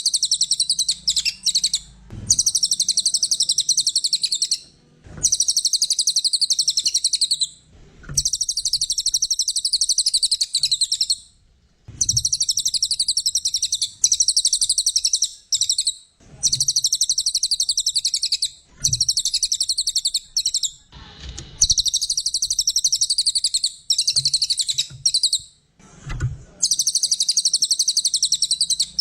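A brown cililin songbird singing in long bursts of very rapid, high, chattering notes, each run lasting a few seconds before a short break. Faint low knocks fall at some of the breaks.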